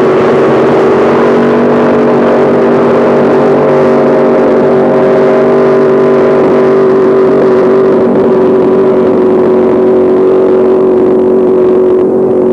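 Racing powerboat engine running flat out at high, steady revs: a loud, even engine note that hardly changes pitch.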